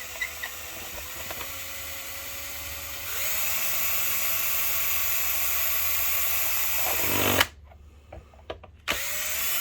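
Small power screwdriver motor running steadily, speeding up and getting louder about three seconds in, then stopping, with a second short run near the end: working at a stuck screw that will not back out of a projector case.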